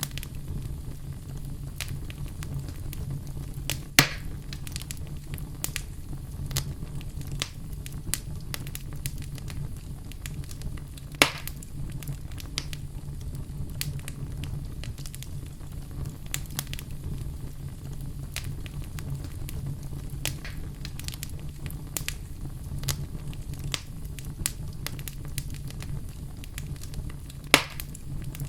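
Wood fire burning in a fireplace: a steady low rumble of flames with constant irregular crackling, and three louder pops of burning wood, about four seconds in, eleven seconds in and near the end.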